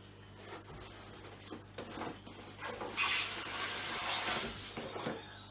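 Packaging being handled while a box is unpacked: a few light knocks and rubs, then a louder scraping rustle lasting nearly two seconds from about three seconds in.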